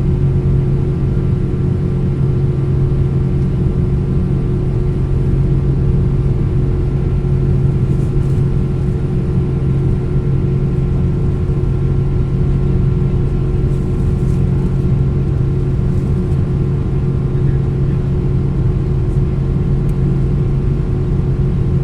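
Steady cabin noise of a Boeing 777-200ER in flight: a constant low drone of engines and airflow with a few steady hums above it.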